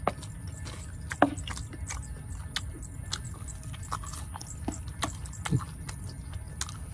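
Close-up mouth sounds of people eating ketoprak: wet chewing and lip smacks with scattered sharp clicks, over a low steady rumble.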